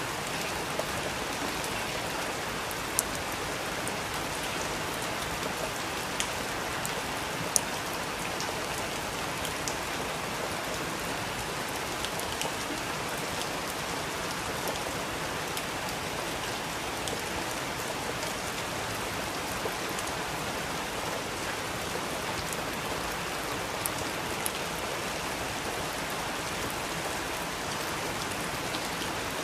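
Steady rain falling, with occasional sharper drops ticking close by, the loudest a few seconds in.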